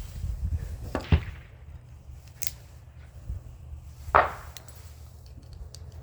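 Sharp knocks and clanks of small metal motor parts being handled and set down while scrap is sorted, four in all and irregularly spaced. A steady low hum runs underneath.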